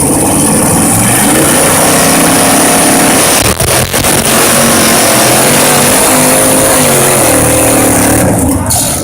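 Pulling truck's engine running hard at high revs, its pitch wavering up and down, with two brief dips about three and a half and four seconds in; it drops away near the end.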